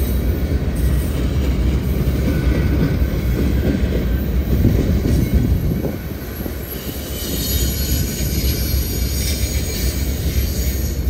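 Freight train cars rolling past on the rails: a steady, loud rumble of wheels on track, with a faint high wheel squeal at times. The rumble eases slightly about six seconds in.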